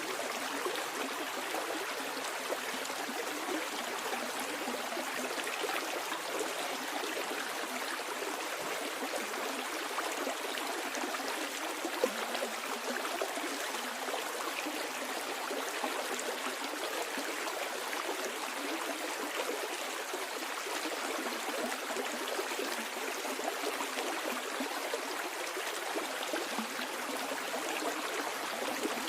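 Stream water flowing steadily downstream, a continuous babbling and splashing rush with small gurgles and trickles, even and unbroken.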